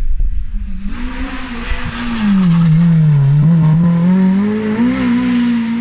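Rally car engine running loud at close range: its note drops as the car slows and climbs again as it accelerates away, typical of a car through a hairpin bend. A low rumble comes first, in the opening second.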